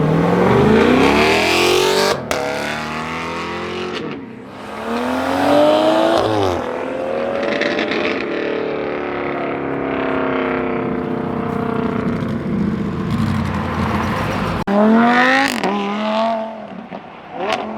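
Performance car engines accelerating hard, their pitch climbing and then dropping back sharply at each upshift. This happens three times, with a steadier engine note in between.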